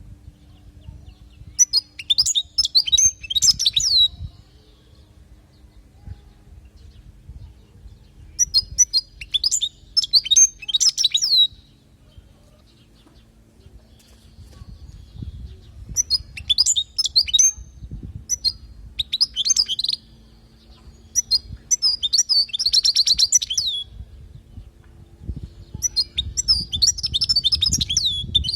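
European goldfinch singing: about six bursts of rapid, twittering song separated by short pauses, one of them with a fast buzzy trill.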